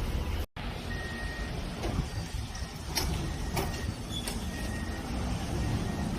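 A vehicle engine running steadily with a low rumble, with several sharp metallic knocks in the middle. The sound cuts out briefly about half a second in.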